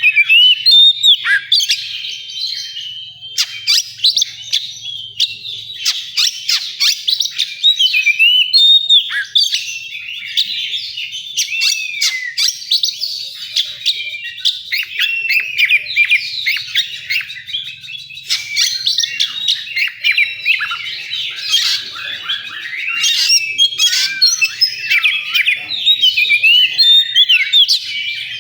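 Oriental magpie-robin (kacer) singing a long, varied, unbroken run of whistled phrases, trills and sharp ticks.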